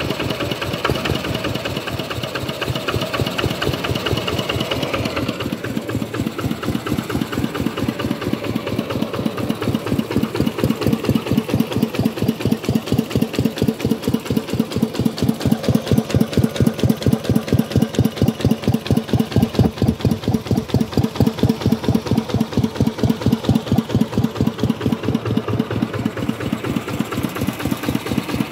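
Kubota RK125 single-cylinder diesel engine running with a steady, evenly spaced chuffing beat, getting louder a bit before halfway and then holding.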